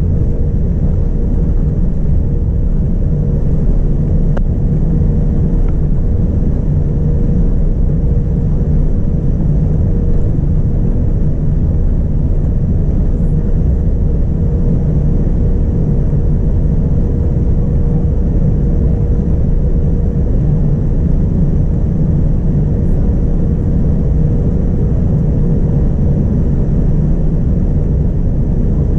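Boeing 787-9 cabin noise in flight: a steady, loud low rumble of engines and airflow with a faint constant hum, unchanging throughout.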